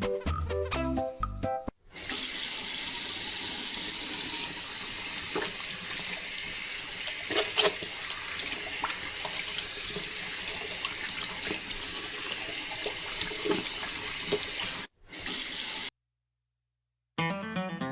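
A steady stream of water pouring and splashing, with a few sharp clicks, the loudest a little before halfway. It breaks off briefly near the end, then stops. Keyboard music plays for the first second or two and comes back just before the end.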